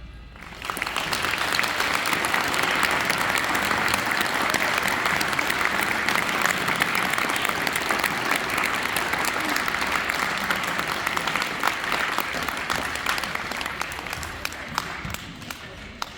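Audience applauding, swelling within the first second, holding steady, then gradually fading near the end.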